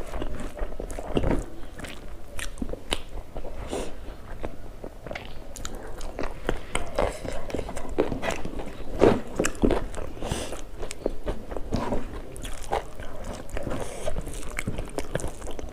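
A person chewing and crunching food in the mouth, with many short, irregular crunches throughout.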